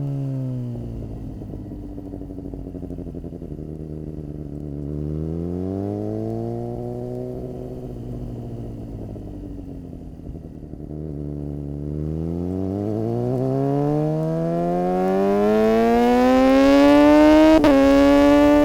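Suzuki GSX-R600's inline-four engine under way, revs rising and falling: dropping at first, rising and easing off twice, then one long climb to its loudest point, with a brief break in the sound near the end.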